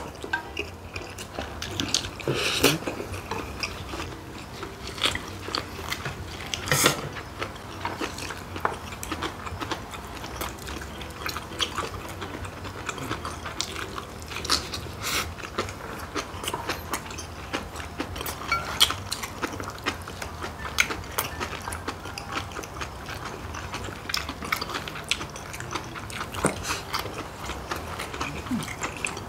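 Close-miked eating sounds of people chewing gimbap, kimchi and ramyun. Many small wet mouth clicks run throughout, with a few louder slurps.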